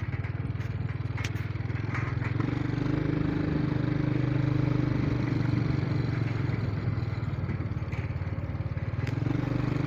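A vehicle engine running steadily while driving, with a fast even firing pulse.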